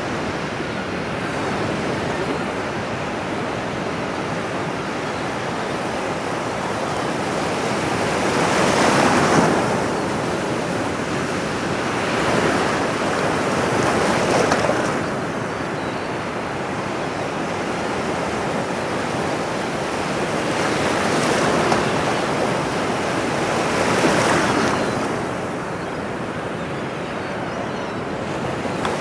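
Ocean surf: a steady wash of water with four louder swells as waves break and run up the shore.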